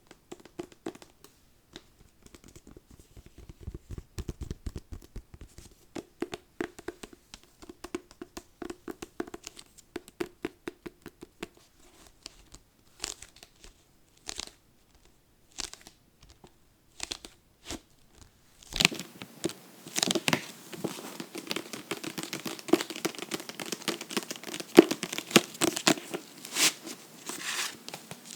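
Close-miked hands working a book, with scratching, tapping and papery rustling. The first two-thirds hold scattered light scratches and taps; then a dense, continuous papery scratching and rustling sets in.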